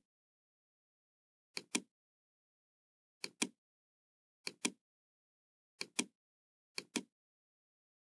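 Computer mouse clicks in pairs, five pairs at uneven intervals of one to one and a half seconds, each pair about a fifth of a second apart, against dead silence.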